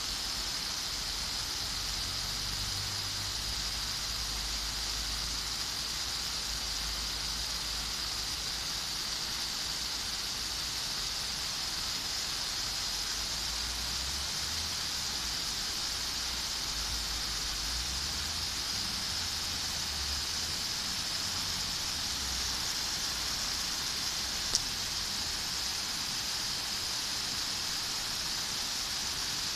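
Steady rain falling in a garden, an even hiss that holds at one level. A single sharp click sounds once, late on.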